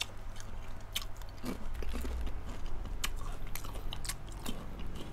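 Close-up chewing of caramel-coated popcorn, with many sharp, irregular crunches as the pieces are bitten and chewed.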